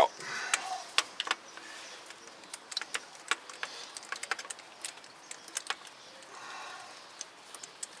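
Light, irregular metallic clicking and clinking of a socket on stacked extensions as a starter mounting bolt is turned out by hand.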